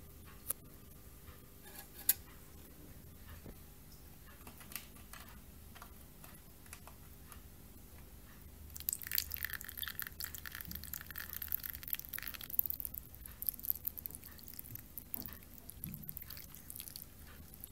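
Cat's Best Nature Gold plant-fibre litter granules crackling and crunching as they are handled in a clumping test. A few sharp clicks come first, then a dense crackle for about three seconds halfway through, easing into scattered crackles.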